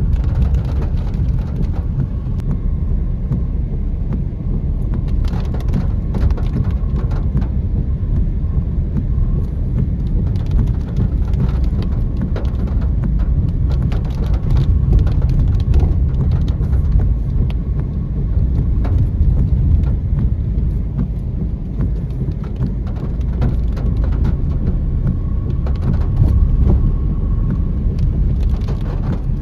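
Steady low rumble of road and engine noise inside a moving Tata Tiago hatchback, with rain tapping on the car.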